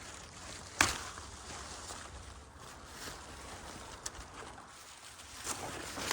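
Outdoor ambience: a steady hiss with one sharp crack about a second in, and a few fainter ticks and rustles toward the end.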